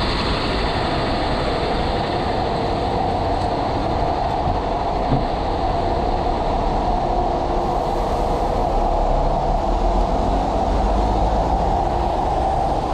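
Heavy rain pouring, a steady rushing noise that does not let up.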